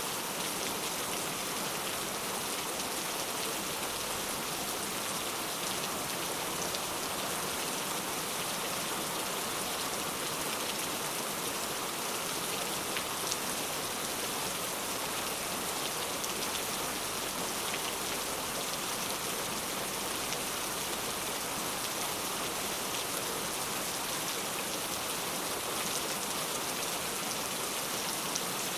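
Heavy rain falling steadily, a dense even hiss of drops on surfaces with faint individual drop ticks.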